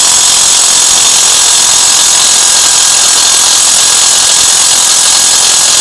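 Impact wrench hammering continuously on a seized wheel hub bolt, trying to break it loose. The noise is loud and steady and stops just after the end.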